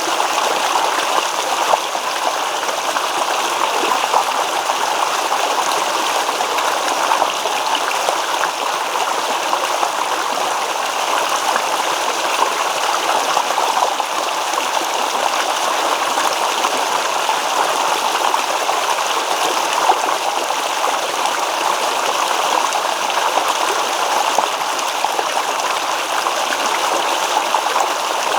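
A babbling stream: water running and rippling over stones in a steady, continuous rush with small irregular splashes and trickles.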